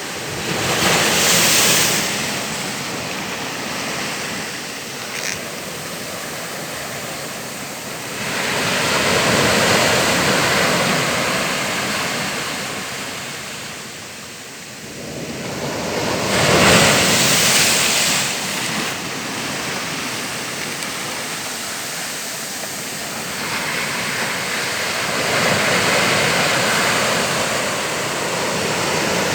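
Ocean surf: a steady rush of waves, each breaking wave swelling louder and fading, about every eight seconds.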